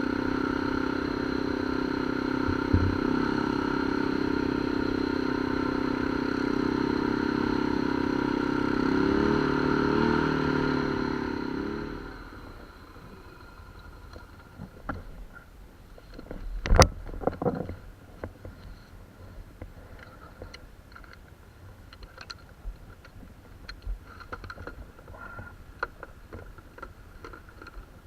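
Off-road vehicle engine running steadily while riding, then shut off about twelve seconds in. Afterwards there are scattered clicks and knocks, with one sharp knock near seventeen seconds.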